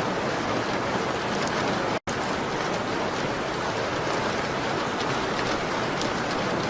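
Steady rain on a window mixed with fireplace ambience: an even hiss with faint scattered ticks. It cuts out for a split second about two seconds in.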